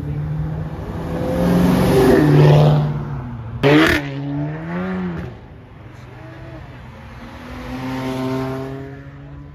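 Several performance cars accelerating hard past one after another, engines revving up with rising pitch. A sharp, loud burst about three and a half seconds in stands out, followed by another rising rev; the last part is quieter, with one more car pulling away near the end.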